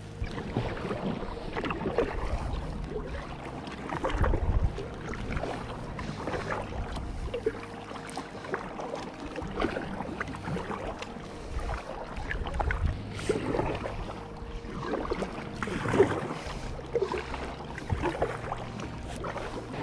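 Irregular small knocks and handling clatter on a kayak on the water, with a low rumble and a few heavier thumps.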